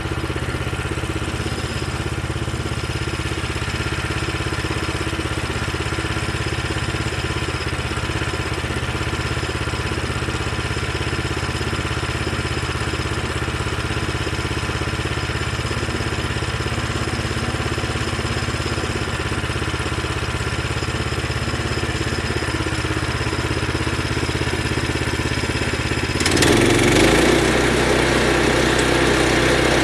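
Sawmill's engine idling steadily while it warms up, then about 26 seconds in it gets louder and its note changes.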